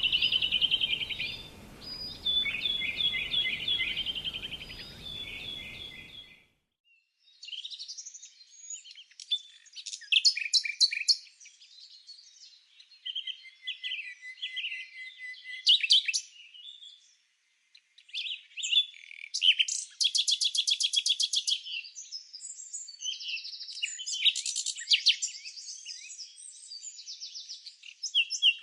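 Several songbirds singing and calling: varied short whistled phrases, chirps and fast trills, one after another. A faint background hiss drops away abruptly about six seconds in, leaving only the song.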